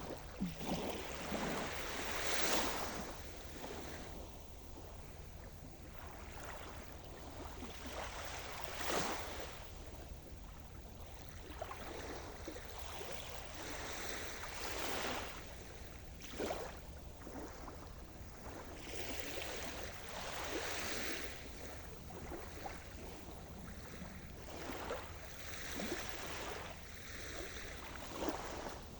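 Sea surf: waves break and wash onto the shore one after another, each swelling and falling away over a few seconds, over a steady low rumble.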